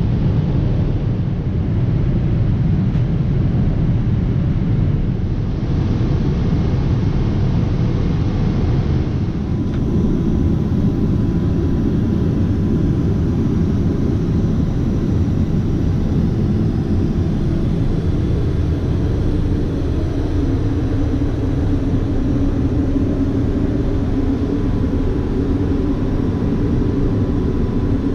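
Steady in-flight cabin noise of a Boeing 777-300ER, a deep even rumble of engines and airflow. About ten seconds in the sound shifts slightly and a thin steady tone joins it.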